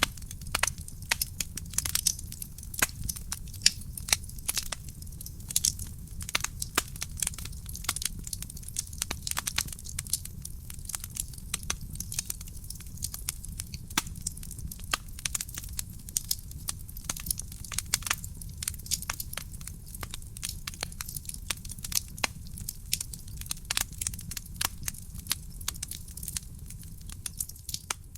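Wood fire burning in a fireplace: dense, irregular crackling and popping of burning logs over a low, steady rumble of the flames.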